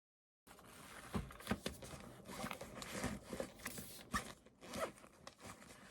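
Close handling noises: rustling and scraping with several sharp clicks, starting suddenly about half a second in.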